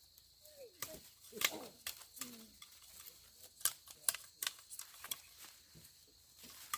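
Irregular scattered clicks and taps, with a few brief voice-like sounds in the first couple of seconds.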